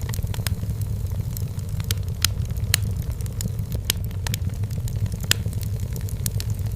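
Wood fire burning in a fireplace: a steady low rumble of the flames with irregular sharp crackles and pops from the burning firewood.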